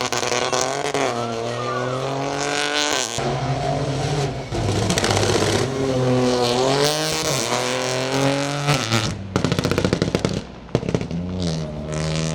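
Peugeot 208 Rally4's 1.2-litre turbocharged three-cylinder engine at full stage pace, the pitch climbing through each gear and dropping sharply at the shifts. About nine seconds in the throttle lifts with a rapid burst of crackles, then the engine pulls hard again near the end.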